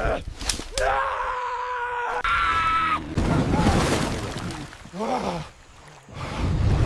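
A voice screaming and groaning in several short bursts that cut off abruptly, with a stretch of rough noise in the middle.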